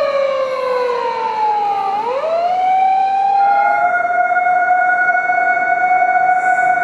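Emergency vehicle siren wailing. Its pitch falls slowly for about two seconds, sweeps back up, and then holds at a steady tone.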